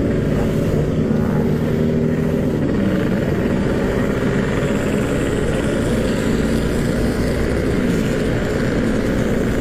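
Yamaha RX-King's 135 cc two-stroke single-cylinder engine, fitted with an aftermarket 'standart belek Packing Power' exhaust, running steadily with an even pitch.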